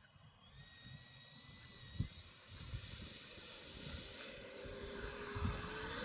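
Jet engine whine growing steadily louder as the aircraft approaches, its pitch rising near the end. A couple of low thumps come through underneath.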